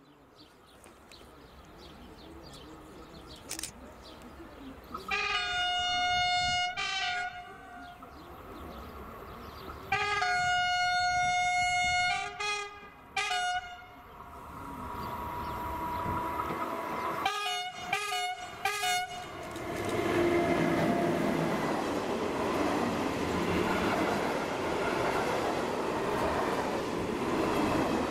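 Freight train locomotive sounding its horn on the approach: a blast about five seconds in, a longer one around ten seconds, a short toot, then three quick blasts. From about twenty seconds the train rolls past close by with a loud, steady rumble and clatter of wagons on the rails.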